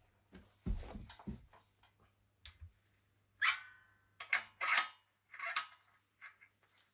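Hand work on metal mower-engine parts and tools: a few dull knocks, then a quick series of sharp metallic clinks, some ringing briefly.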